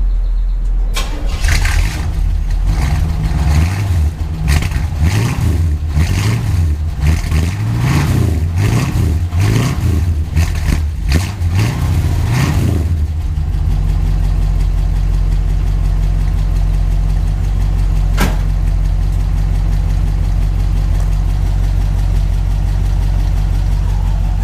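1968 Chevrolet Impala's 327 V8 running through a new dual exhaust, blipped up and down in quick repeated revs, then settling to a steady idle about halfway through. A single sharp click comes about 18 seconds in. The owner says the lifters are making a little noise and the valves need adjusting.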